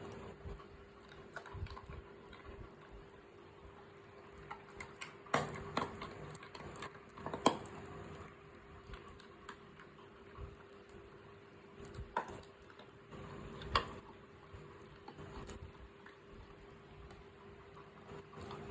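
An animal chewing mutton: irregular wet clicks and crunches, with a few louder crunches scattered through.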